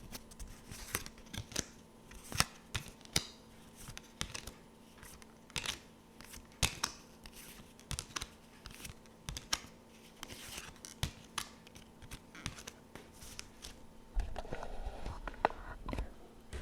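Tarot cards handled close to the microphone: irregular crisp snaps and flicks of card stock, about one or two a second, with louder rustling from about fourteen seconds in.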